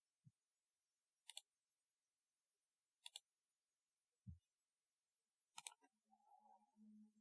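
Sparse, faint keystrokes on a typewriter-style keyboard: three sharp double clicks spaced a second and a half to two and a half seconds apart, with two dull low thuds between them. A faint low, broken sound follows near the end.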